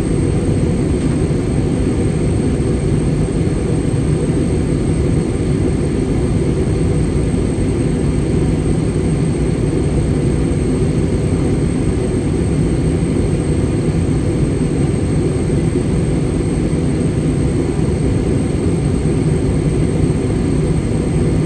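Airbus A320 cabin noise during descent: a steady rush of airflow and engine drone, heaviest in the low range, with a faint, thin, high whine held throughout.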